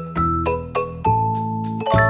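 Instrumental background music: a light keyboard melody of short notes over held bass notes, ending on a final chord struck near the end that rings on and fades.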